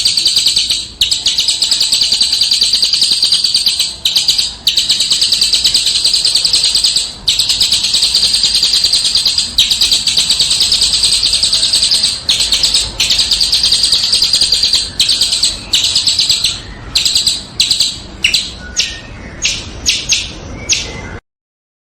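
A small songbird singing a fast, dense, harsh chattering song, nearly continuous with a few brief breaks. Near the end it breaks into short bursts, then cuts off suddenly.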